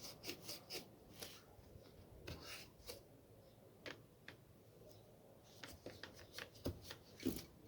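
Faint scattered clicks and rustles of plastic parts being handled and prodded inside a disassembled angle grinder's trigger switch housing.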